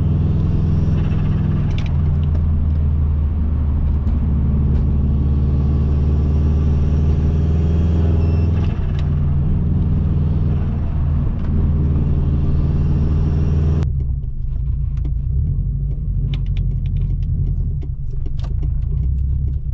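Subaru Impreza WRX's turbocharged 2.0-litre boxer four running steadily under way with road noise, its pitch dipping briefly twice. About 14 seconds in the higher noise cuts off suddenly, leaving a low engine rumble with scattered clicks.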